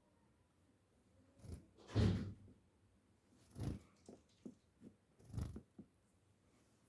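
A series of soft, irregular thumps and rustles, the loudest and longest about two seconds in, with no birdsong.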